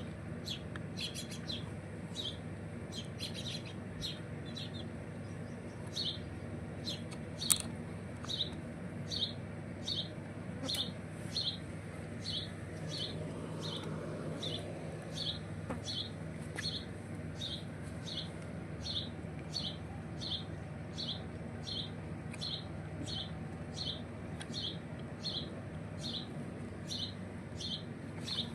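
A small bird chirping over and over at an even pace, a little under two short high chirps a second, over a steady low hum, with a couple of sharp clicks in the first half.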